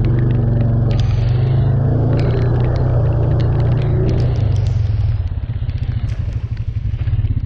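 Off-road vehicle engine running under load while driving through mud, with scattered sharp ticks over it. It works hardest for the first five seconds or so, then eases off.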